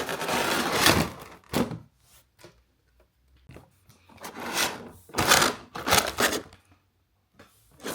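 Cardboard figure box being opened and its packaging handled: scraping and rustling with light knocks, in a few separate bursts, the loudest a little past the middle.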